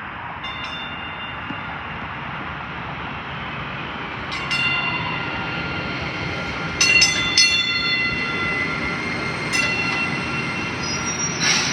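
Passenger train running past with a steady rumble, joined about four seconds in by high-pitched wheel squeal that comes and goes several times.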